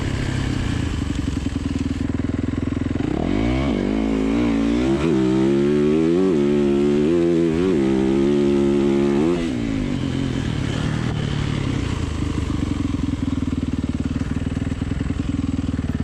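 Gasoline dirt bike engine idling, then revved in a run of quick blips from about three seconds in to about nine seconds, then settling back to idle.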